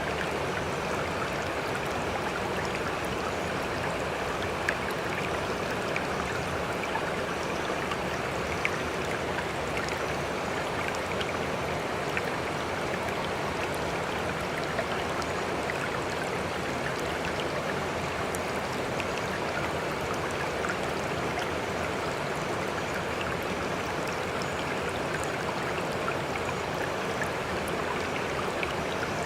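Sea water rushing steadily, with small splashes and drips scattered through it and no rise and fall of separate breaking waves.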